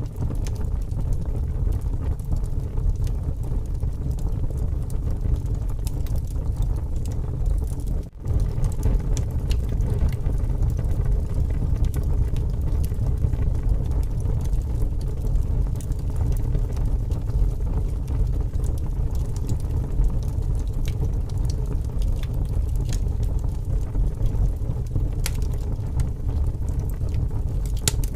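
Wood fire burning, with scattered sharp crackles and pops over a steady low rumble of strong wind. The sound cuts out for an instant about eight seconds in.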